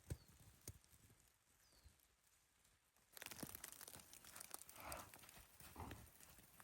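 A few faint thuds, then from about three seconds in a faint crackling hiss with scattered ticks.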